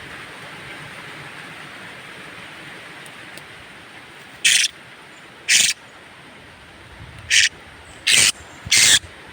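Kulasisi (Philippine hanging parrot) giving five short, harsh, shrill calls over a steady hiss. The calls start about four and a half seconds in, the last three coming close together.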